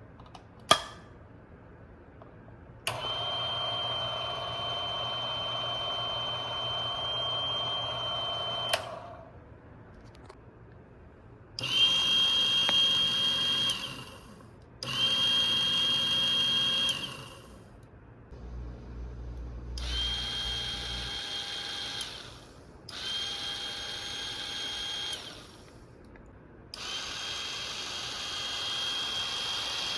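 Niche Zero coffee grinder's brushless motor switched on and off six times, each run lasting a few seconds and carrying a steady high-pitched whine over the motor noise. The owner takes the whine for the sign of a defective motor or gearbox in the motor module. A sharp click comes just before the first run.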